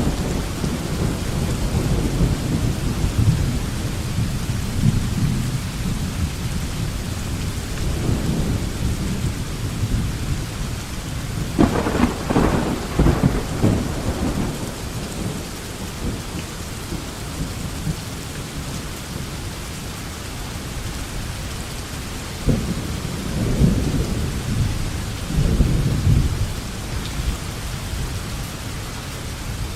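Thunderstorm: steady rain falling, with rolling thunder. A sharper, closer thunderclap comes about twelve seconds in and rumbles on for a couple of seconds, and lower rumbles follow about twenty-three and twenty-six seconds in.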